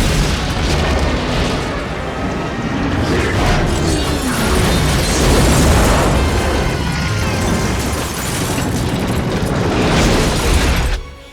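Film action sound of explosions and heavy booming rumble over an orchestral score, dense and loud, cutting off sharply near the end.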